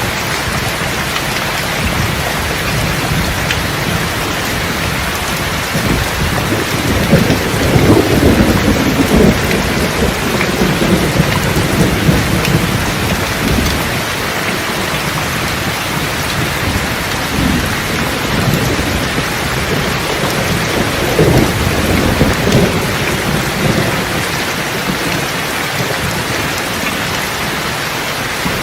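Steady heavy rain with rolling thunder, the thunder rumbling loudest from about six seconds to thirteen seconds in and again a little past twenty seconds.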